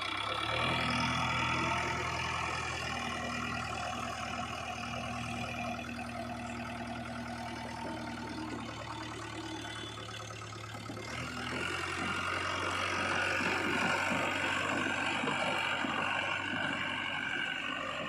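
Heavy diesel engine running steadily; about eleven seconds in the engine note changes and the sound grows louder for a few seconds.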